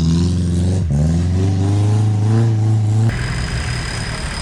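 Off-road 4x4 engine labouring on a rough trail, its pitch rising and falling with the throttle, with a brief dip about a second in. About three seconds in the sound cuts off abruptly to a quieter background with a thin high whine.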